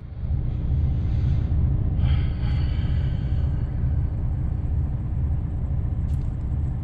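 Truck engine running with a steady low rumble; a fainter higher whine joins about two seconds in and fades out a second or so later.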